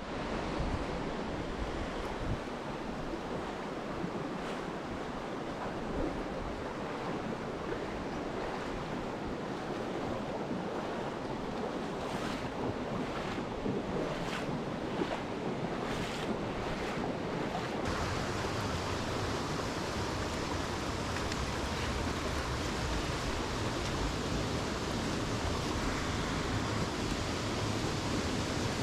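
Rushing water of a mountain stream, a steady even wash, with a low rumble joining about two-thirds of the way in.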